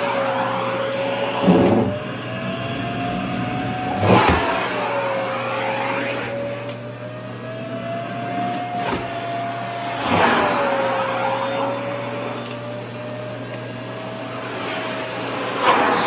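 Vacuum cleaner running steadily, its motor whine wavering in pitch. Loud rushes of air come about a second and a half in, around four seconds, around ten seconds and near the end, as skirt fabric is sucked against the nozzle.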